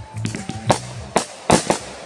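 Consumer aerial fireworks bursting overhead in a quick series of about five sharp bangs, the loudest about halfway through and again near the end, with music playing underneath.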